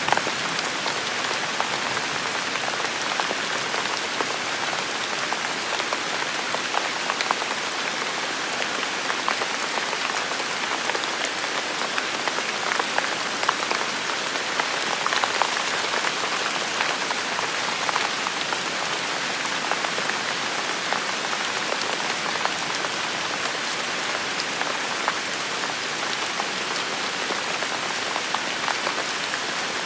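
Steady heavy rain falling, a dense even hiss with many small drop impacts pattering through it.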